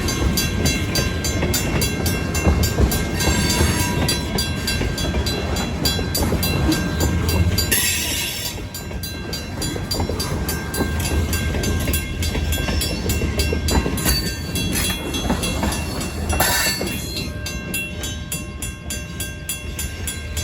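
Freight train cars rumbling over a road crossing while the crossing's first-generation WCH mechanical bell rings with steady, evenly repeated strikes. Two brief hisses come about 8 and 16 seconds in.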